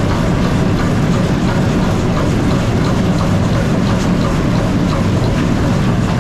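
Steady loud mechanical rumble with faint scattered clicks and ticks.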